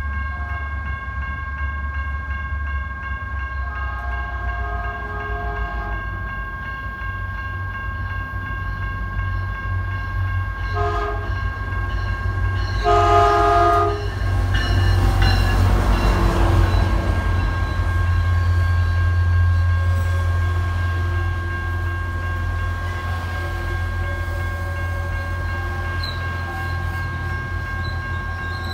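Caltrain MPI MP36PH-3C diesel locomotive sounding its horn in several blasts for a grade crossing, the loudest a longer blast about 13 seconds in, then passing close with a loud rush, the deep rumble of its 16-cylinder two-stroke diesel and its bilevel passenger cars rolling by. Crossing bells ring steadily throughout.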